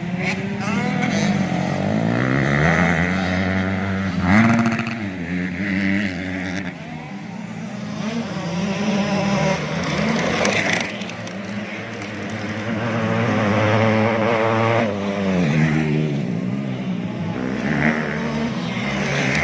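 Several 85cc two-stroke motocross bikes racing, their engines revving high and dropping again and again as riders accelerate, shift and pass, with more than one engine heard at once.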